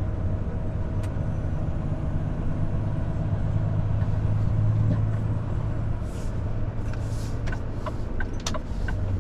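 Volvo FH 500 truck's 13-litre six-cylinder diesel heard from inside the cab, a steady low drone that swells a little around the middle. In the last couple of seconds the turn indicator ticks about three times a second.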